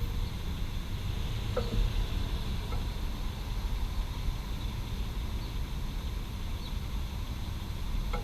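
Steady low rumble of urban traffic, with a couple of sharp metallic ticks from a Ducati motorcycle's hot engine and exhaust contracting as it cools, one about a second and a half in and a fainter one near three seconds.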